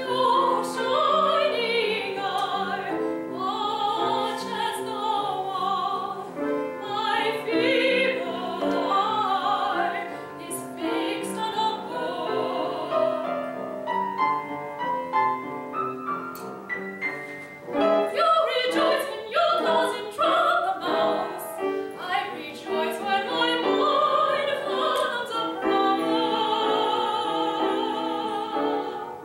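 Classical art song: a trained solo voice singing with vibrato over piano accompaniment.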